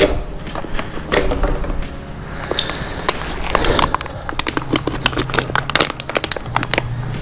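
Irregular crackling and clicking of litter being handled and crumpled, coming thicker in the second half. A low steady hum comes in about halfway.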